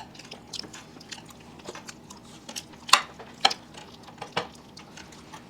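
Eating sounds: chewing on tandoori chicken, with scattered sharp clicks of utensils against plates. The loudest clicks come about three seconds in and again shortly after.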